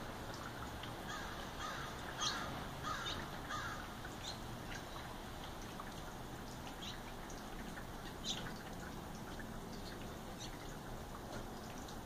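Small birds chirping in short, separate high calls, loudest about two seconds in and again around eight seconds, over a steady background hiss.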